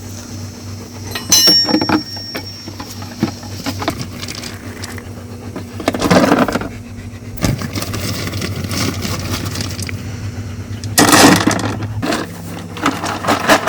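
River rock poured into a plastic bucket, clattering and clinking in two loud bursts about six and eleven seconds in, with scattered clicks of single stones between. A steady low engine hum runs underneath.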